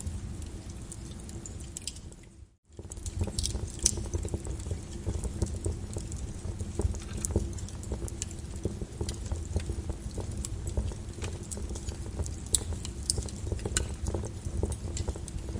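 Flowing lava crackling and clicking irregularly over a steady low rumble. The sound fades out briefly about two and a half seconds in and then comes straight back.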